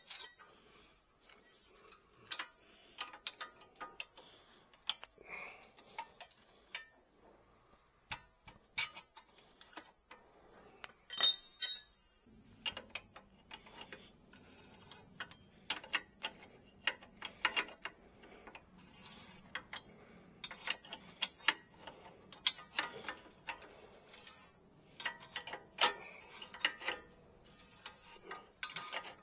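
Irregular sharp clicks and taps of hand tools and car parts being handled during work on the car, with one louder clatter about eleven seconds in.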